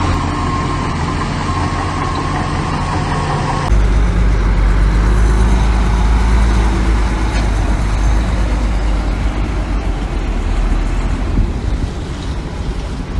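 Heavy diesel earthmoving machinery running steadily. About four seconds in the sound cuts abruptly to a louder, deeper engine.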